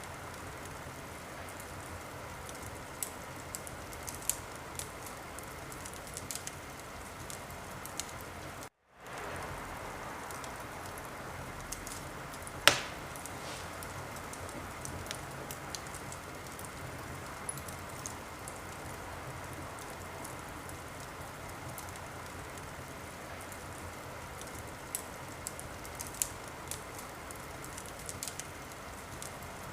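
Wood fire burning in a fireplace: a steady hiss with scattered crackles and one loud pop about thirteen seconds in. The sound cuts out for a moment about nine seconds in and fades back up.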